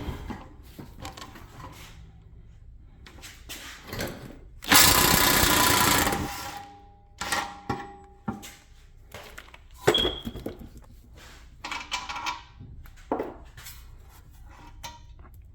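Impact wrench hammering on a 32 mm rear hub nut in one loud burst of about a second and a half, about five seconds in, with scattered clinks and knocks of tools and the socket before and after.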